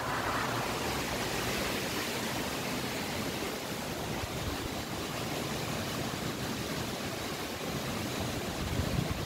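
1968 Chevrolet Impala's V8 idling steadily, heard with the hood open as an even, unbroken noise.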